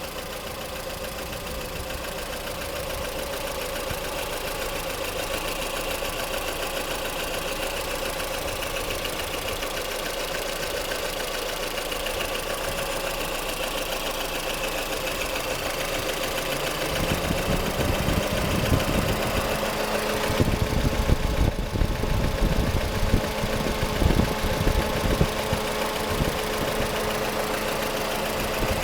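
Lada Kalina 1.6 eight-valve four-cylinder engine running hot with a light, persistent knocking, louder and with sharper knocks in the second half. The owner cannot tell whether the knock comes from the pistons or the camshaft.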